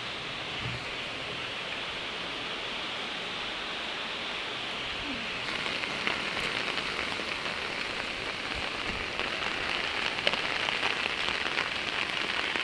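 Heavy rain falling steadily, growing a little louder about halfway through.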